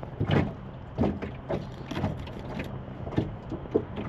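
Wind buffeting the microphone in irregular gusts on a small boat out on open water.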